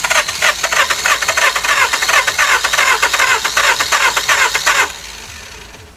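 Starter motor cranking the 2003 Nissan Altima's 2.5 L four-cylinder engine in a rapid, even rhythm without it catching, then stopping about five seconds in. This is a no-start: spark shows briefly and then drops out, with a P0340 camshaft position sensor code that the mechanic ties to the missing spark.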